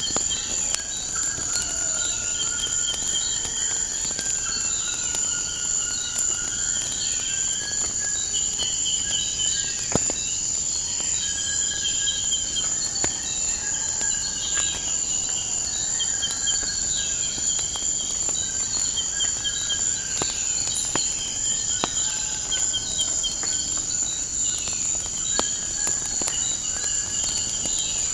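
Crickets chirping in a steady high trill, with birds calling in short repeated phrases over it and a few sharp crackles from a wood fire.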